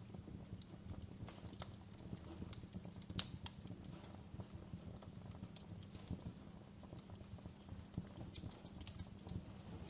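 Wood fire burning in a fireplace, crackling with irregular small pops over a low steady rumble of the flames; one sharper pop stands out about three seconds in.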